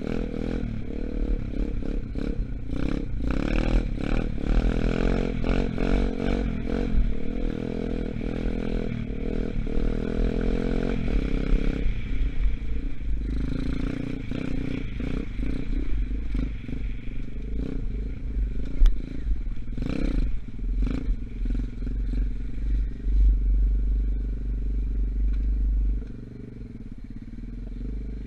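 A 125cc dirt bike's engine running while being ridden, with repeated rattles and knocks from the bike over rough ground and heavy wind rumble on the microphone. The engine falls quieter near the end.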